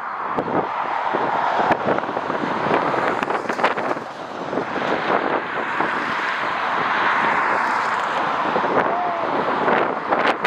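Jet airliner engine roar that swells in the middle and eases near the end, with strong gusts crackling and buffeting on the microphone.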